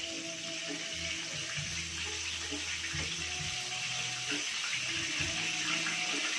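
Chicken pieces deep-frying in a pan of hot oil: a steady sizzle.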